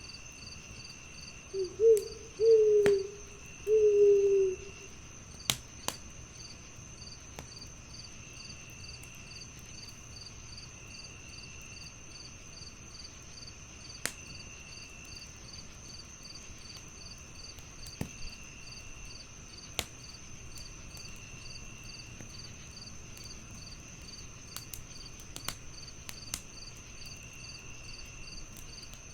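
An owl hoots three times a couple of seconds in, over steady chirping of crickets. A fireplace gives a few sharp crackles now and then.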